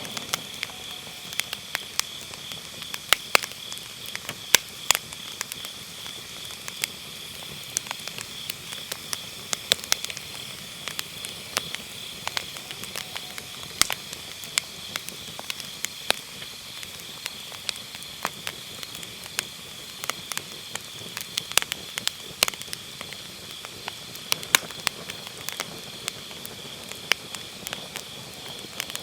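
Wood fire burning in a fire pit, crackling and popping at irregular moments, over a steady high trilling of grass insects.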